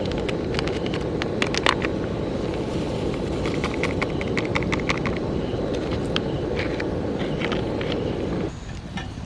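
Wood campfire crackling, with sharp pops and snaps over a steady low rush of burning. The low rush drops away abruptly near the end.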